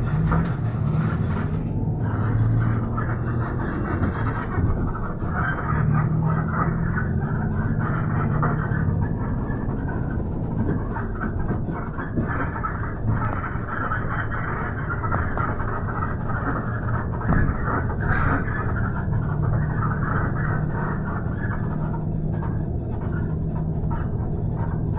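Steady ride noise inside a moving bus: engine hum and road rumble, with the engine's low tone shifting in pitch now and then.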